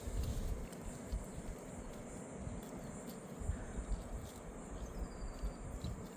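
Crickets trilling steadily over an even outdoor hiss, with low gusts of wind buffeting the microphone.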